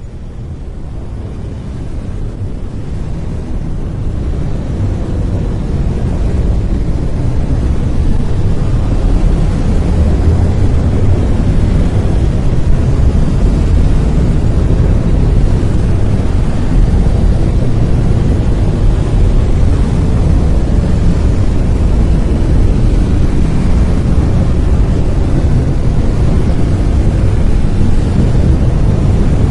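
Brown noise: a deep, even hiss with most of its weight in the low end, fading in over the first several seconds and then holding steady.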